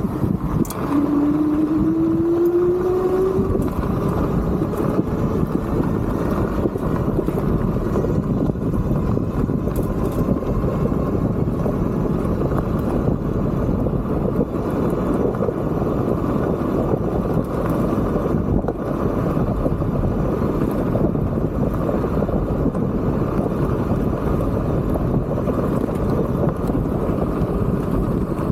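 Riding noise from a Tiger Plus fat-tyre electric bike: a steady rush of wind on the microphone mixed with tyre and road noise. In the first few seconds a whine rises in pitch as the rear geared hub motor picks up speed.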